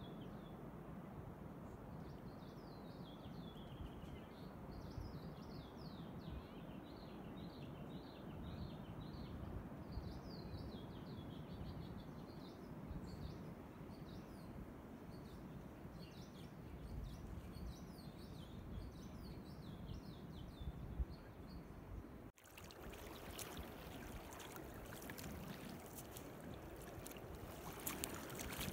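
A faint, steady wash of calm sea water with birds chirping over and over. About 22 seconds in, the sound cuts to a louder rush of water with splashes: feet wading through shallow sea water, with more splashing near the end.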